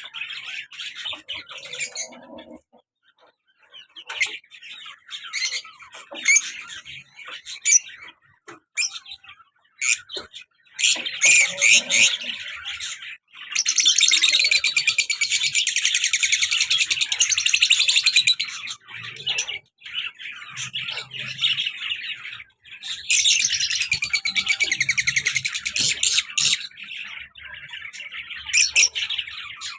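Lovebirds chattering and giving sharp high-pitched chirps and squawks, with two long spells of dense continuous chattering, one starting a little before the middle and one later on.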